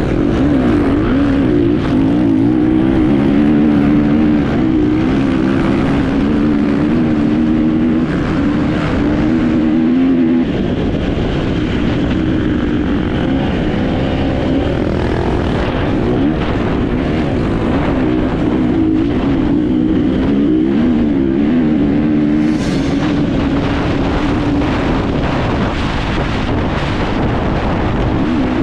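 Enduro motorcycle engine heard from on board while racing, its pitch rising and falling continuously with the throttle, with wind noise and knocks and rattles from the rough ground.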